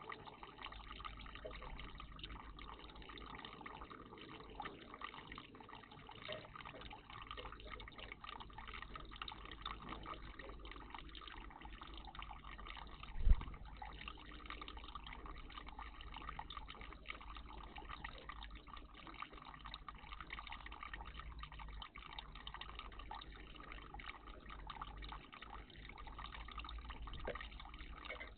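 Water trickling and dripping steadily in a garden bird bath, with one brief low thump about thirteen seconds in.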